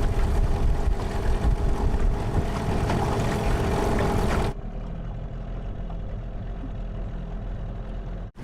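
Motorboat's outboard engine running under wind noise on the microphone. About four and a half seconds in, the sound cuts abruptly to a quieter, steadier low engine hum without the wind.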